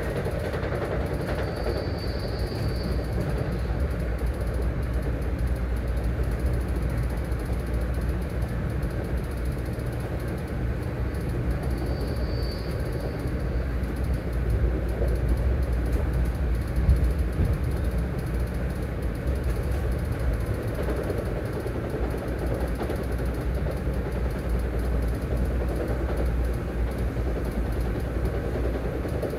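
Steady low rumble and rattle of a moving train heard from inside the carriage. A brief faint high squeal comes about two seconds in and again about twelve seconds in, and the running noise swells a little around sixteen seconds.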